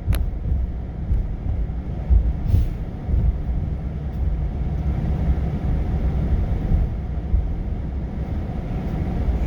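Delivery truck driving, a steady low engine and road rumble heard from inside the cab, with a sharp click right at the start.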